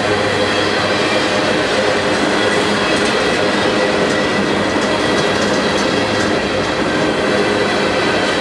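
Freight train cars, covered hoppers and then tank cars, rolling past close by: a steady sound of steel wheels running on the rails, with a thin ringing and light clicking over the rail joints.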